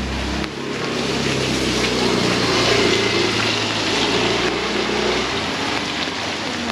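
Heavy rain pouring, with a motor vehicle's engine running close by, a steady low hum that stops about five seconds in.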